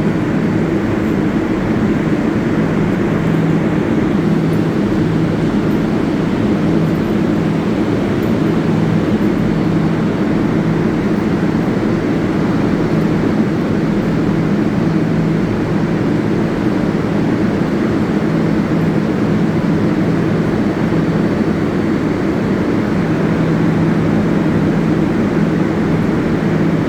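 New York City Subway 7 train: a steady, loud hum and rumble with a low steady tone, unchanging throughout.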